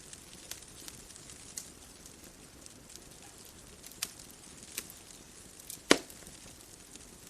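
Bonfire crackling: scattered sharp pops from the burning wood over a soft steady hiss, with one much louder pop near the end.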